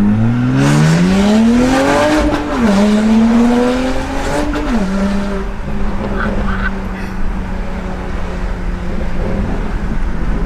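BMW 135i's N54 twin-turbo straight-six with a straight-through exhaust accelerating hard with a loud roar. It shifts up about two and a half seconds in, pulls again, shifts up once more near five seconds and settles to a steady cruise.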